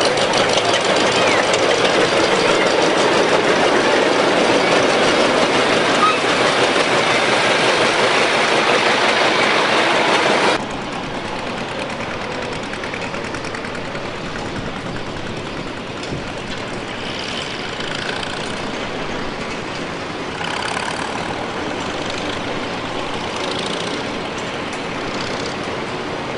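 Antique farm tractor engines running. The sound is loud and close for about the first ten seconds, then drops abruptly to a quieter, more distant steady engine sound.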